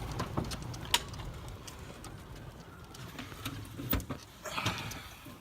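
Golf cart moving along a rough woodland trail: a low rumble with irregular clicks and knocks, the sharpest about a second in and another about four seconds in.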